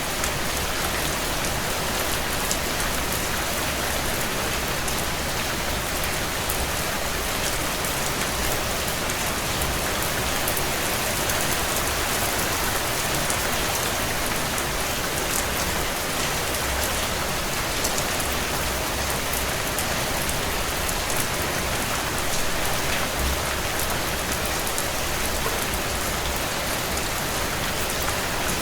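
Heavy rain on a tin roof: a steady, dense patter of drops with fine ticks of individual drops on the metal.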